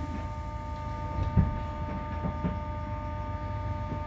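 Steady electrical hum with a few fixed whining tones from a standing London Underground 1996 Tube stock train, heard inside the carriage, with a single knock about one and a half seconds in.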